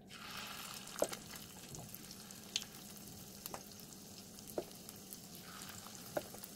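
Spoonfuls of fish roe batter frying faintly in hot oil in a pan, a steady sizzle, with a metal spoon clinking against the bowl and pan five times as batter is scooped and dropped in.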